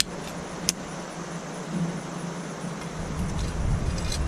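Steady rushing of river water, with two sharp clicks near the start and a low wind rumble on the microphone from about three seconds in.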